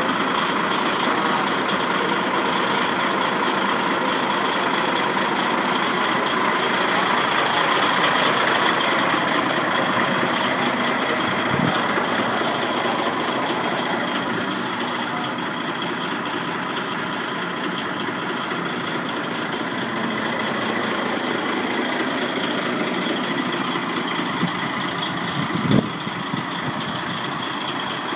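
DAF XF 95 tractor unit's straight-six diesel idling steadily, with a thin steady whine above it. A short louder sound rises briefly near the end.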